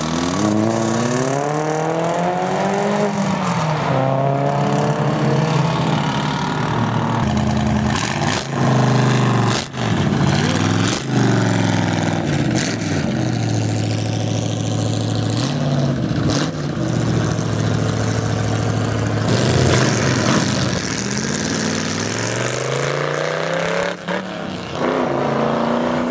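Performance car engines accelerating hard away from a car meet, the pitch climbing with each rev and dropping back at each gear change, in several short edited clips. Among them are a first-generation Chevrolet Camaro and a Shelby Cobra roadster's V8.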